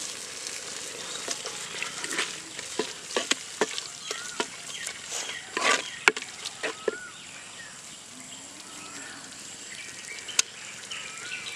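Onions, tomatoes and freshly added ground spices sizzling in oil in a clay pot, with a wooden ladle stirring and scraping against the pot in short irregular clicks and scrapes.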